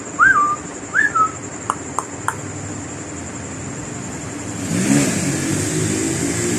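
A pet bird gives a few short whistled notes that rise and fall, mixed with sharp clicks, in the first couple of seconds. About four and a half seconds in, a passing motor vehicle's engine comes up and becomes the loudest sound.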